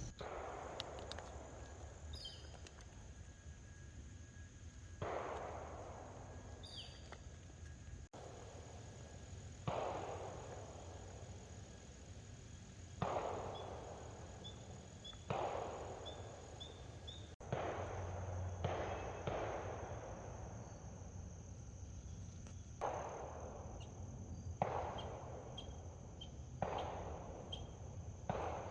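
Distant gunshots in the woods, about eleven of them, two to four seconds apart, each rolling away in a long echo. A steady insect trill runs underneath.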